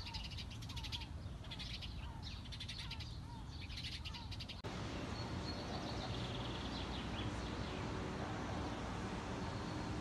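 Birds calling and chirping, repeated short calls and high chirps over a steady low background hum. About halfway through, the sound cuts abruptly to a louder, steady rushing noise with only faint bird chirps left above it.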